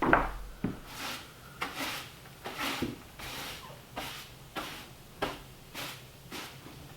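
Timber being worked with a hand tool: a knock, then a string of short rasping strokes on wood, about one every half second to second.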